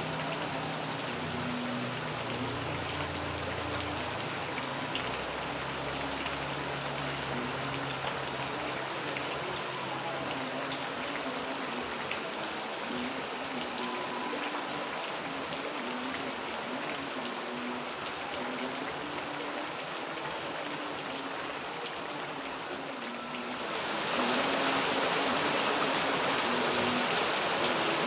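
Steady rain falling, with a faint low hum under it for the first several seconds. About four seconds before the end the rain turns suddenly heavier and louder.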